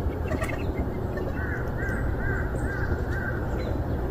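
A bird calling in a run of about six short, evenly spaced calls in the middle, over a steady rushing background noise.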